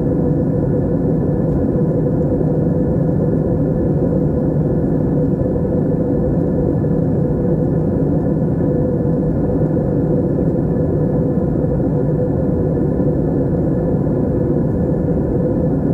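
Steady drone of an airplane cabin in flight, engine and airflow noise unchanging, with a faint steady hum running through it.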